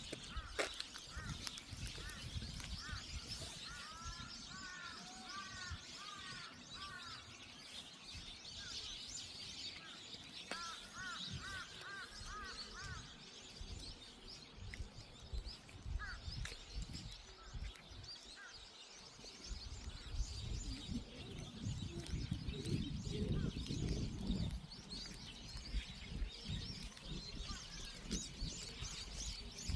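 Birds chirping and singing, with two runs of quick, repeated arching notes over a steady high chatter. Low, uneven thumps and rumbles come in during the second half.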